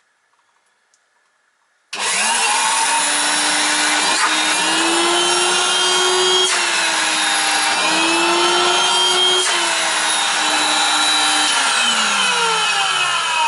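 A 1985 Numatic Henry HVC200 vacuum cleaner's motor switched on about two seconds in, starting abruptly and running with a loud whine whose pitch rises and dips twice, then switched off near the end and winding down with a falling whine. The owner judges from its running that the motor bearings need changing.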